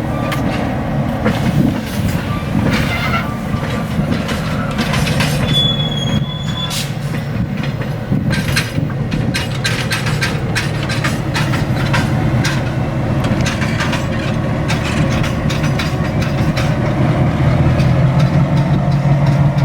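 EMD GP-7 diesel locomotive and a passenger car rolling slowly during yard switching: the engine runs steadily under a string of clicks and clanks from wheels over rail joints and couplers, with a brief high wheel squeal about six seconds in. The engine grows louder near the end.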